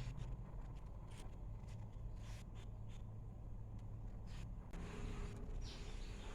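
Light rustling and taps from paper and sticker sheets being handled, a few short scattered sounds over a steady low background hum.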